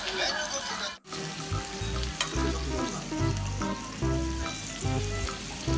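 Food sizzling on a grill pan, with background music carrying a heavy bass beat. The sound drops out briefly about a second in.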